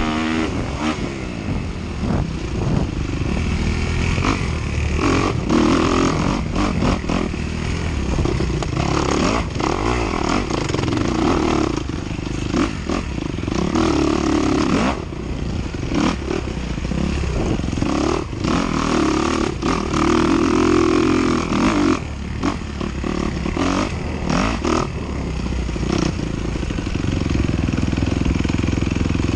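Dirt bike engine revving up and falling off again and again as the bike races over a cross-country course, with frequent knocks and rattles from the bike over rough ground.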